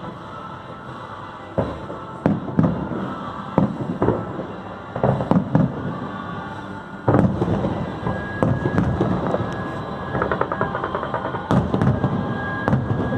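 Fireworks show: a string of sharp booming bursts, with a run of dense crackling about two-thirds of the way through.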